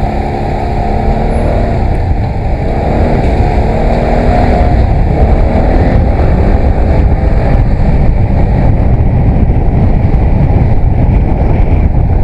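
Motorcycle engine revving up and down, its pitch rising and falling through the first few seconds, then a steady dull rumble of engine, wind and road noise at speed. The sound is muffled, with little treble.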